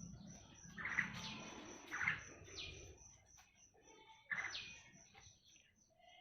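Black-winged myna (jalak putih) giving about four short, harsh calls that drop in pitch, spaced a second or so apart.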